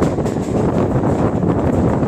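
Steady wind rushing over the microphone at the open door of a moving Mumbai suburban EMU train, over the rumble of its wheels on the rails.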